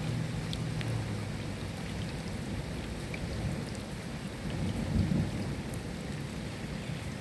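Steady rain falling, with scattered drop taps over an even hiss, and low rumbling thunder under it that swells briefly about five seconds in.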